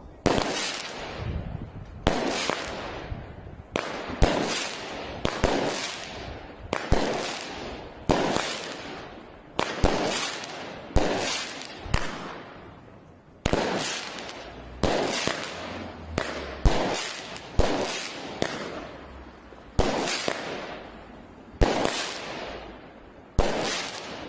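Weco Alligator firework battery firing shot after shot, about one a second. Each is a sharp report that dies away over about a second.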